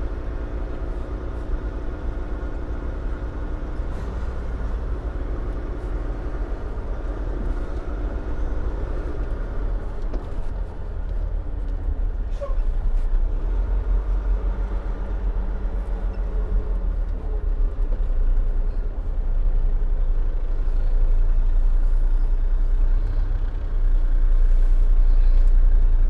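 Dump truck's diesel engine running, heard from inside the cab, with a steady low drone that grows louder over the second half.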